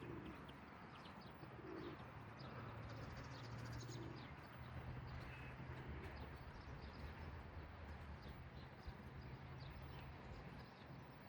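Faint birdsong: pigeons cooing a few short times in the first seconds, with small birds chirping in quick high notes, over a low steady hum of the city.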